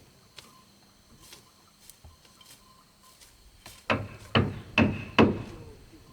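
Hammering on wood: a few faint taps, then a quick run of four sharp blows, about two and a half a second, starting a little after halfway through.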